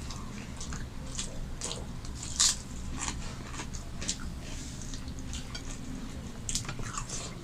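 Close-miked eating: a person chewing and biting food, with irregular wet clicks and smacks, one sharper click about two and a half seconds in.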